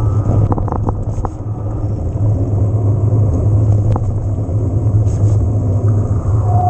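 Riding noise from an e-mountain bike on the move: a steady low rumble of wind buffeting the camera microphone along with tyre noise, broken by a few sharp clicks and rattles, several about a second in and one about four seconds in.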